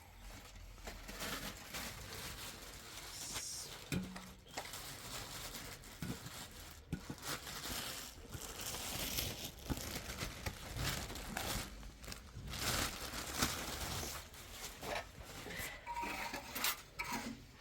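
Handling noises: irregular rustling and crinkling broken by many light clicks and clinks.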